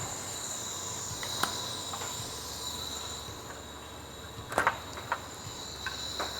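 A few sharp clicks and knocks of keg transfer fittings being handled, loudest in a quick cluster a little past the middle, over a steady faint high-pitched whine.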